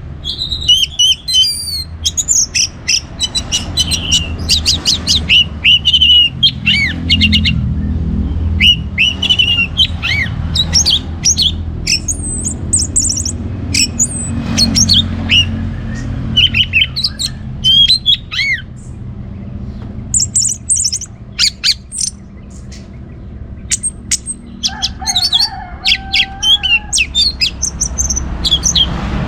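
Orange-headed thrush singing continuously: a long, varied run of quick chirps, whistles and mimicked phrases with short pauses. A steady low rumble lies underneath.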